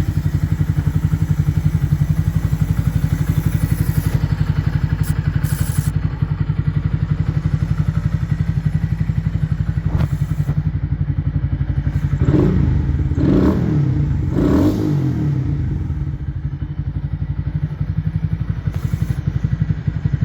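Honda Monkey Z125's single-cylinder four-stroke engine idling steadily through an aftermarket Zoom exhaust, with three short throttle blips a little past halfway through.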